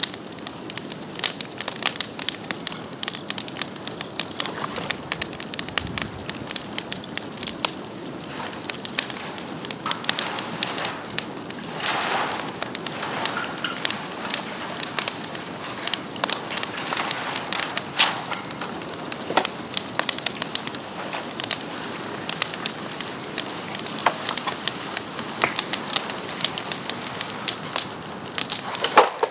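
Bamboo and bamboo branches burning in an open bonfire, crackling steadily with many sharp snaps and pops over a low hiss.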